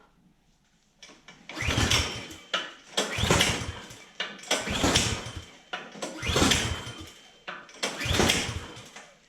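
Craftsman snowblower engine being pull-started five times, each pull turning it over for about a second without it catching. It does not fire because the spark plug wire is disconnected.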